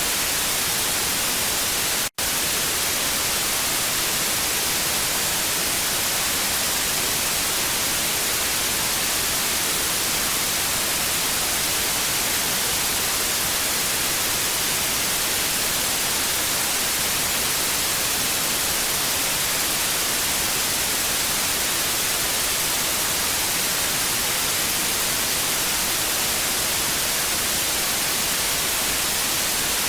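TV static: a steady, even hiss, brightest in the treble, that cuts out for a split second about two seconds in.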